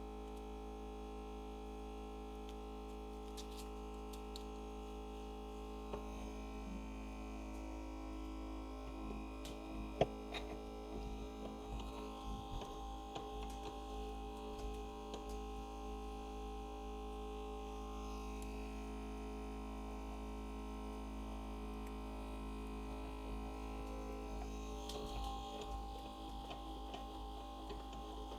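Steady electrical hum of an LCD screen separator machine running with its vacuum on, with faint irregular scraping as a wire cuts through the phone's screen glass and one sharp click about ten seconds in.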